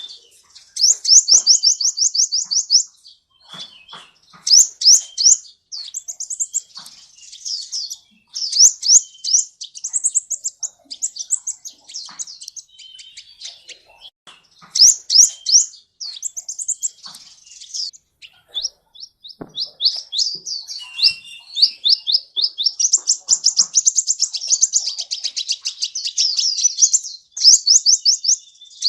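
Sunbird singing: loud, high-pitched rapid trills of quick rising notes, delivered in bursts of a second or two with short gaps between them.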